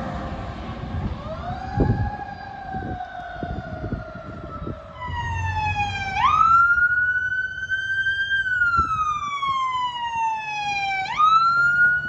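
Emergency vehicle siren wailing. A lower tone rises and slowly sinks, then a higher tone slides up and down, jumping up sharply in pitch twice. Low vehicle rumble and a few short knocks run under it.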